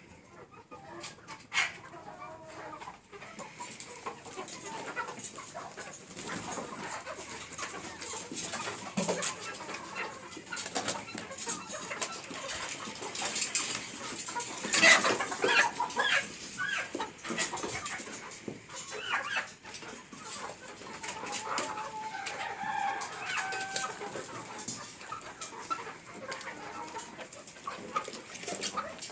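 A flock of chickens clucking and calling, with one louder call about halfway through, and frequent sharp clicks.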